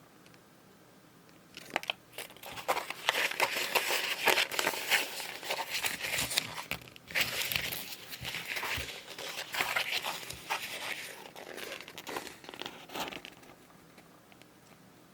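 Packaging crinkling and rustling as it is handled and unwrapped. The crinkling starts about two seconds in and dies down near the end.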